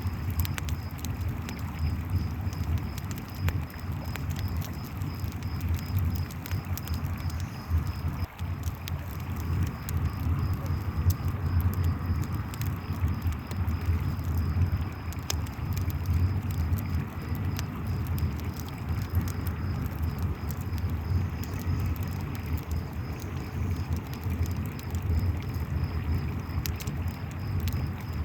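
Campfire crackling with sharp scattered pops over a steady rushing river, while crickets chirp in a continuous high pulsing trill.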